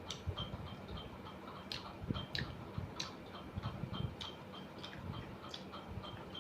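A person chewing a mouthful of rice, dal and mushroom, with irregular wet mouth clicks and soft low thuds. Under it runs a steady fast ticking, about three ticks a second.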